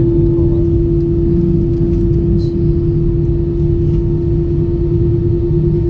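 Steady cabin noise of an Airbus A320: a continuous low rumble under a constant hum at one pitch.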